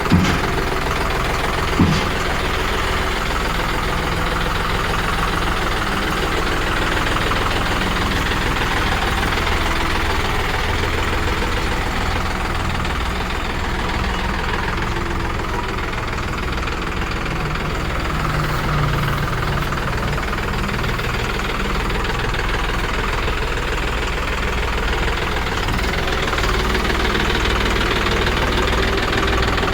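John Deere 5210 tractor's diesel engine running steadily, with a single sharp click about two seconds in.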